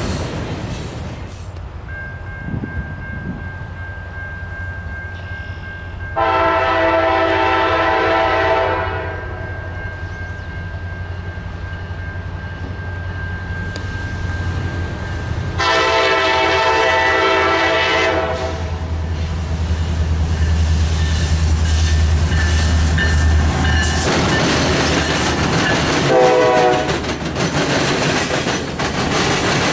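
Freight train led by Norfolk Southern diesel locomotives (an SD60E and a C40-9W) approaching and passing: its multi-chime air horn sounds two long blasts, about 6 and 16 seconds in, and a short one near the end, while the locomotives' diesel engines rumble louder as they come by. After the engines pass, covered hopper cars roll by with wheels clicking over the rail joints.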